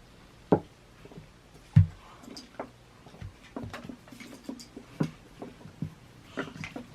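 Knocks and taps of Play-Doh tools being handled and set down on a table. The loudest knocks come about half a second and nearly two seconds in, another comes around five seconds, and lighter clicks fall in between.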